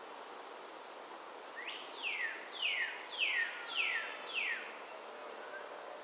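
A songbird singing a run of five clear slurred notes, each falling in pitch, a little over half a second apart, beginning about one and a half seconds in, with a short high chip before and after the run. Faint steady outdoor background hiss underneath.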